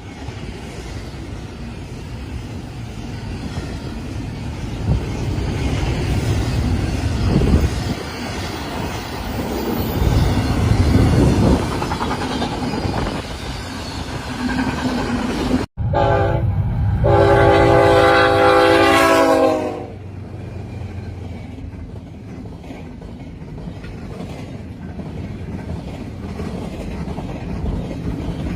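A train rumbling and clattering past, building louder. After a sudden cut, a locomotive horn sounds a chord: one short blast and then a long one of about three seconds. The wheels keep clattering over the rail joints afterwards.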